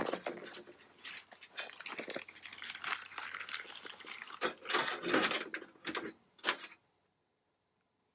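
Irregular clattering and scraping of metal parts and hand tools being handled, in uneven strokes, stopping abruptly near the end.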